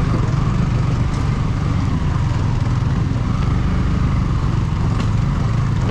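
Motorcycle riding along, its engine and the ride making a steady low rumble.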